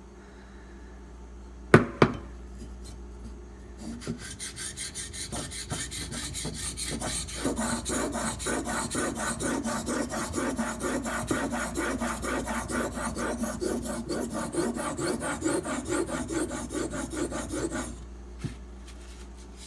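Steel knife blade, held in a sharpening clamp, scraped back and forth on a sharpening stone in rapid, even strokes to cut off the old edge; the strokes grow louder a few seconds in and stop abruptly near the end. A single sharp knock about two seconds in.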